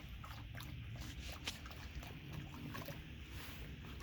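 Faint steady rush of rain runoff flowing down an arroyo, with a few light ticks.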